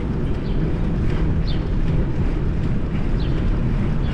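Wind buffeting the microphone of a moving bicycle: a steady low rumble, with a couple of brief high chirps about a second and a half and three seconds in.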